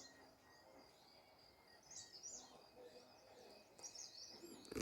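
Faint birdsong over near silence: small birds chirping in short high phrases, about two seconds in and again near the end.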